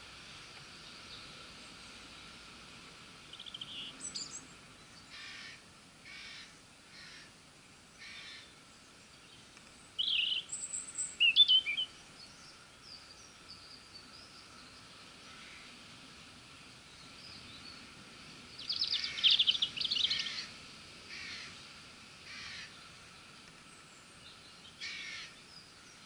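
Wild birds calling in trees. There are short harsh calls at roughly one-second intervals, chirping song phrases about ten seconds in, and a loud run of harsh calls around nineteen seconds in, all over a faint steady outdoor background.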